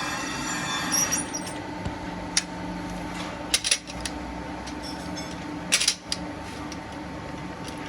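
Workshop machinery running with a steady hum. A high-pitched metallic squeal ends about a second in, followed by several sharp metal clanks.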